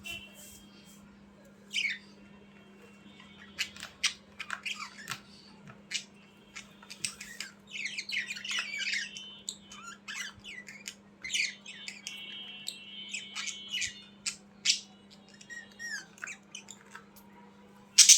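Budgerigars chattering, with a rapid run of short chirps, squawks and warbled whistles and a loud squawk near the end, over a steady low hum.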